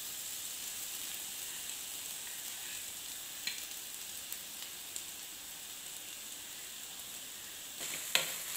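Chopped onion and ginger-garlic paste sizzling steadily in hot ghee in a frying pan, with a few light clicks and a sharper click near the end.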